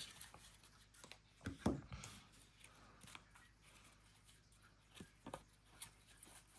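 Trading cards being handled and slid past one another, quiet apart from a louder rustle about one and a half seconds in and a few soft flicks near the end.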